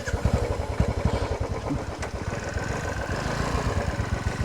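Royal Enfield Bullet's single-cylinder engine running, its exhaust giving a rapid, even thump-thump beat.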